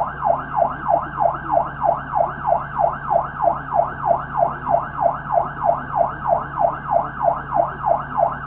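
Police car siren in fast yelp mode, sweeping up and down about three times a second at a steady level.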